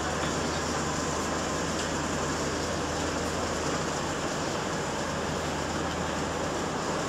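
Prameks diesel multiple unit standing at the platform with its engines running, a steady, even hum and rumble.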